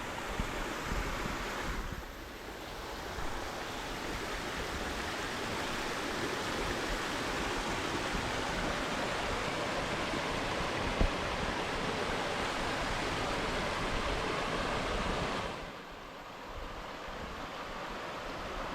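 Mountain stream rushing over rocks: a steady rush of water that goes briefly quieter about two seconds in and again near the end.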